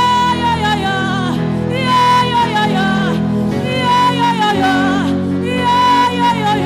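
Gospel worship music: a high voice sings long held notes that slide down at their ends, over a steady sustained keyboard chord.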